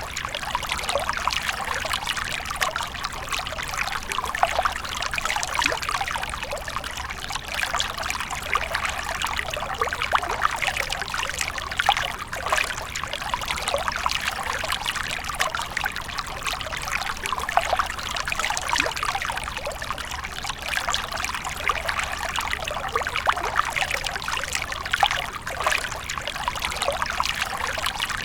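Water from a fountain splashing and trickling steadily, a continuous bright spatter with no pauses.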